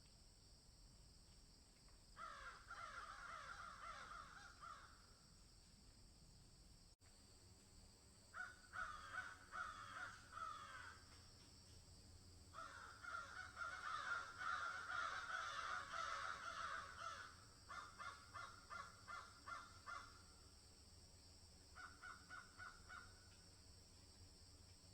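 Animal calls in several bursts of quick repeated notes, loudest about halfway through, over a steady faint high hiss.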